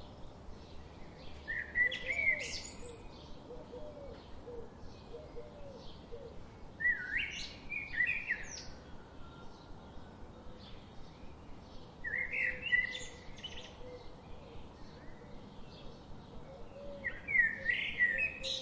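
Songbird singing a loud, varied phrase of quick rising and falling notes, about a second and a half long, four times at roughly five-second intervals, over faint chirping from other birds.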